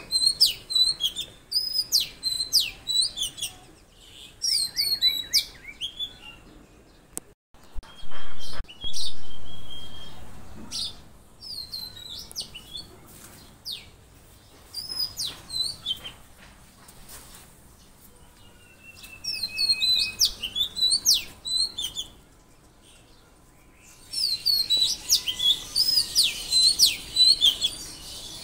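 Songbirds chirping and whistling, with quick high calls repeated over and over and a brief lull a little before the end. Two loud thumps come about a third of the way in.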